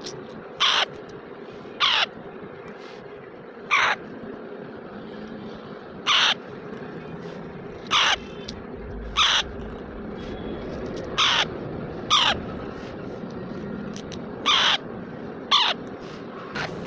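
Young parrot giving short harsh squawks, about eleven in all, spaced irregularly every second or two, over a steady low background hum.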